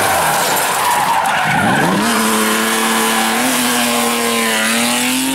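Rally car engine dropping in revs with tyre skid noise, then revving up about a second and a half in and holding a steady high note.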